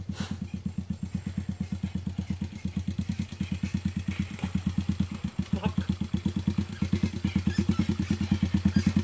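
Pit bike's single-cylinder engine running at low revs with an even putt of about nine beats a second. It grows slightly louder toward the end.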